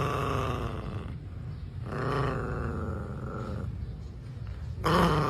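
Dog growling continuously, swelling louder twice.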